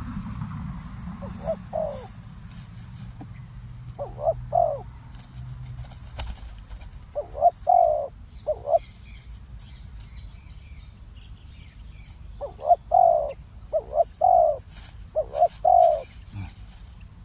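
Spotted doves cooing: short repeated coo phrases in several bursts, with a run of them close together in the last few seconds. Small birds chirp faintly in the background.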